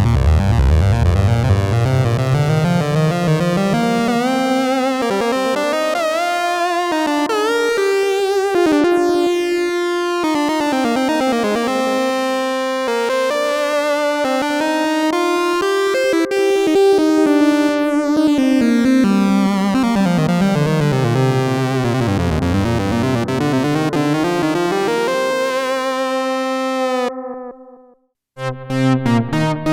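Arturia MatrixBrute analog synthesizer playing a lead patch: a melodic line whose pitch slides smoothly from note to note. Near the end it stops, and after a short gap a new patch begins with short, separate notes.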